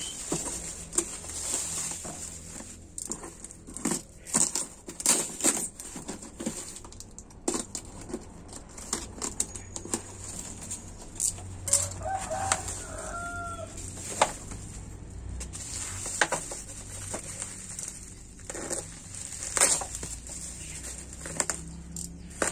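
Cardboard box and plastic packaging being handled while a wireless router is unboxed: irregular rustling, crinkling and small taps and knocks. A short pitched animal call sounds a little past halfway.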